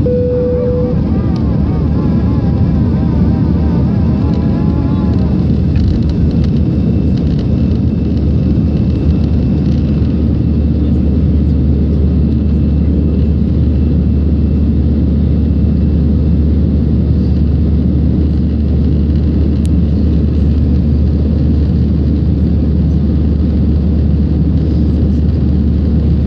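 Steady cabin noise of an Airbus A319 in its climb after takeoff: a loud, even rumble of engine and airflow with a constant low hum. A short single tone sounds right at the start.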